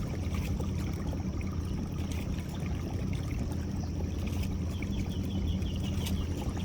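Boat motor running steadily at low speed, with water trickling and splashing. A quick run of high chirps comes near the end.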